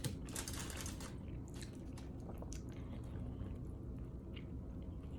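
A person chewing food close to the microphone, with many small irregular clicks and crackles of the mouth.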